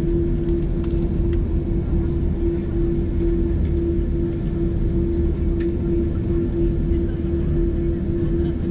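Cabin noise inside a jet airliner: the engines give a steady hum over a low rumble, with a few faint clicks.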